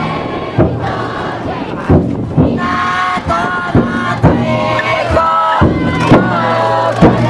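The big taiko drum inside a futon daiko festival float beaten in slow, heavy strokes about once every half second to a second, while the bearers and crowd shout and chant together.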